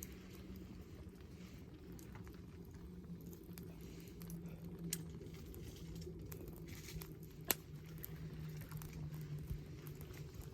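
Wood fire crackling faintly with scattered small snaps, and one sharper pop about seven and a half seconds in.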